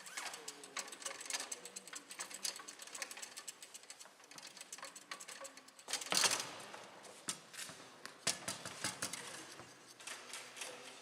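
Foosball play on a Bonzini table: rapid, irregular clicks and knocks of the ball being struck by the rod figures and bouncing off the table, with a louder burst of knocks about six seconds in.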